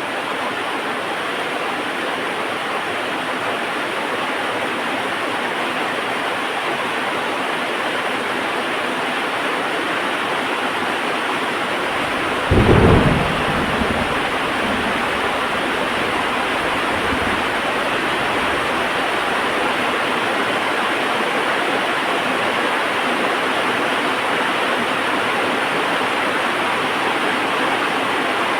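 Heavy rain falling steadily, with a sudden crack of thunder a little before halfway that rumbles away over several seconds.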